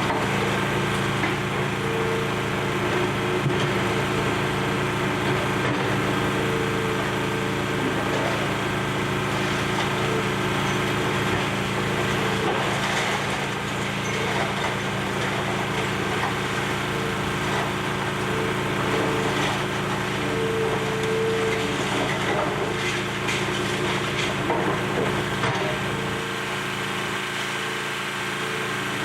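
Excavator's diesel engine running steadily, with continuous crackling and splintering of building debris as it is torn apart.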